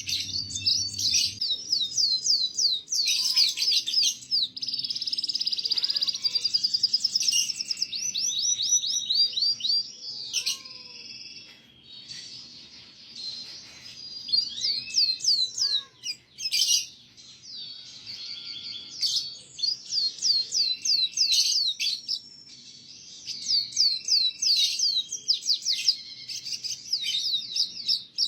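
Canary singing a tutor song for young canaries: fast rolling trills of quick downward-sweeping notes, broken by a couple of brief lulls.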